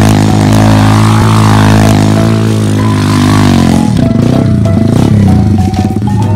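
A motor vehicle's engine running at a steady pitch, changing to a rougher, pulsing sound about four seconds in, with music over it.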